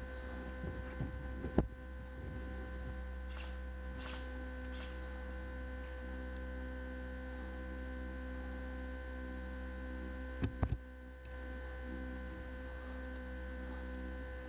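Steady electrical hum with several fixed tones, broken by a sharp click about a second and a half in and a quick cluster of two or three clicks a little past the middle.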